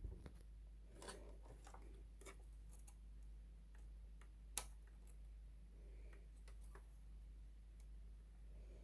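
Faint, scattered clicks and taps of small parts being handled during a repair, with one sharper click about four and a half seconds in, over a steady low hum.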